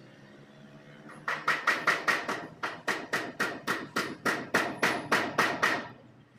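Hammer striking metal in a quick run of about twenty blows, roughly four a second, each with a short ringing tone.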